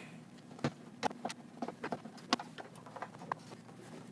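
Irregular light clicks and taps of small metal parts being handled as a snake box's front panel is fitted back on and its screws put back in.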